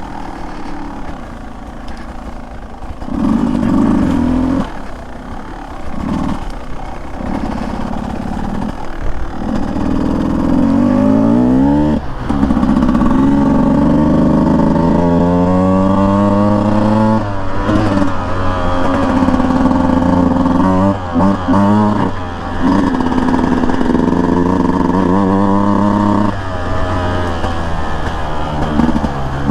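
Beta 200 single-cylinder two-stroke dirt bike engine running under load, its pitch rising and falling with the throttle. The throttle is cut briefly a couple of times about two-thirds of the way through.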